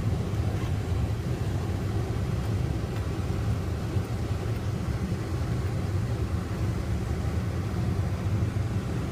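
Steady low drone of a car's engine and road noise heard from inside the moving car.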